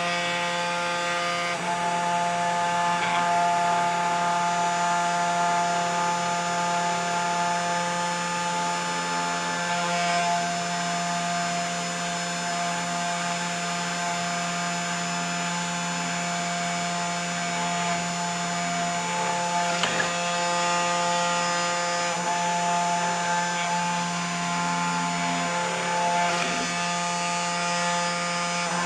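3018 desktop CNC router's spindle motor running steadily with a whine of several steady tones, as the bit mills the copper of a circuit board. A brief click about 20 seconds in.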